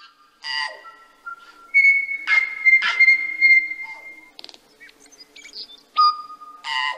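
Birdsong: clear whistled notes, some held for up to about two seconds, mixed with several short harsh calls.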